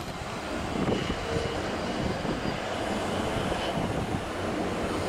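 EU07 electric locomotive hauling a passenger train into the station: a steady rumble of motors and wheels on rail that grows louder as it nears, with a faint thin squeal in it.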